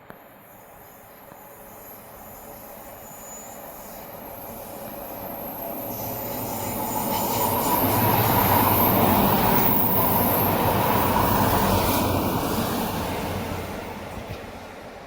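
A train passing close by on the line. Its noise of wheels on the rails builds over several seconds, is loudest from about halfway through, and then fades away, with a few clicks as it goes past.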